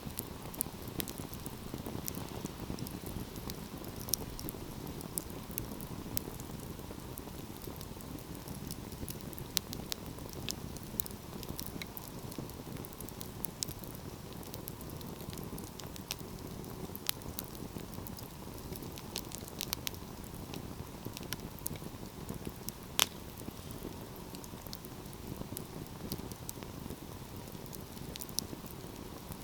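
Wood fire burning with a steady low rush of flames and frequent irregular small crackles and pops, one sharper snap about 23 seconds in.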